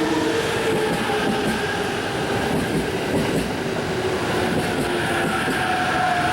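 E353 series electric multiple unit moving slowly along the platform: steady rolling noise from the wheels, with the whine of its traction motors drifting in pitch.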